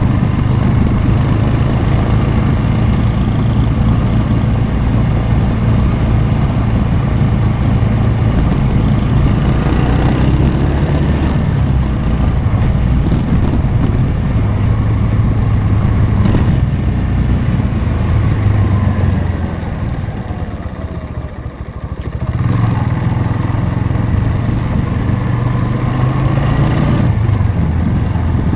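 Motorcycle engine running while riding at a steady pace. It eases off for a couple of seconds about two-thirds of the way through, then picks up again.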